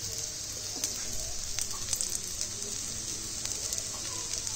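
Breadcrumb-coated patties shallow-frying in a little oil on a flat tawa: a steady sizzle with scattered small crackles.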